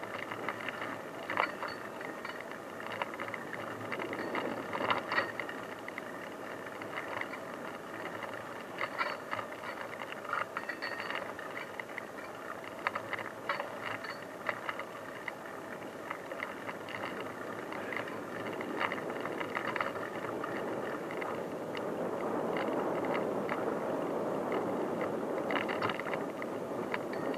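Bicycle riding over an unpaved forest track: steady tyre and rolling noise with frequent small rattles and clicks from the bike, a little louder near the end.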